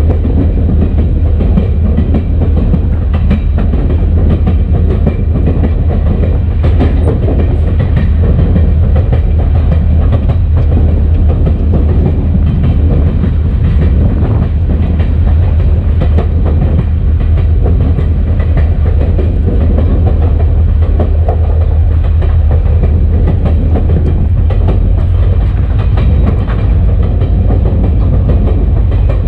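EMD SD40-2 diesel locomotive running down the track, heard from outside on its short nose: a loud, steady low rumble with noise from the moving train and faint clickety-clack from the wheels on the rail joints.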